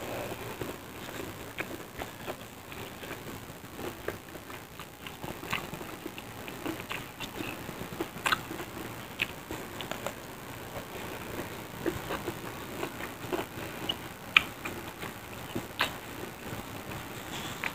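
Close-up chewing of crispy battered fried tempeh (tempe mendoan), with irregular crunchy clicks throughout and a few sharper crunches standing out.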